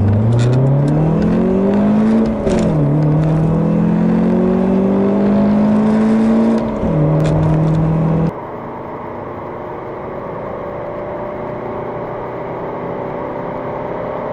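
Car engines accelerating at full throttle, heard from inside the cars: the revs climb and fall back sharply at gear changes about 2.5 and 7 seconds in. About 8 seconds in the sound cuts to a quieter engine that keeps pulling with slowly rising revs.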